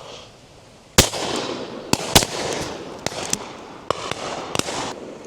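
Shotgun shots on a driven game shoot: one loud close shot about a second in, then a quick string of further shots, several fainter, each followed by a rolling echo.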